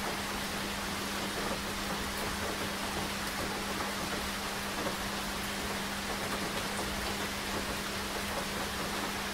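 Steady rain falling, an even hiss with no break or change, over a steady low hum.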